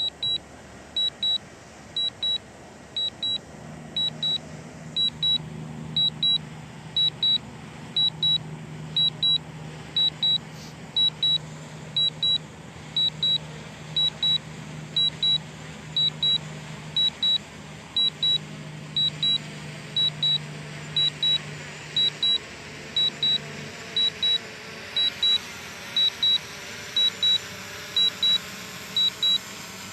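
A camera drone's remote controller giving a quick high double beep about once a second, the alert while the drone is returning home and coming down to land. From about four seconds in until near the end, the drone's propellers make a steady low hum as it hovers close by.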